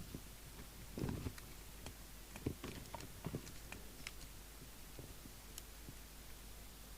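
Faint handling sounds from work on a CB radio on the bench: a soft knock about a second in, then a scatter of light clicks and taps, likely from pushing its knobs on.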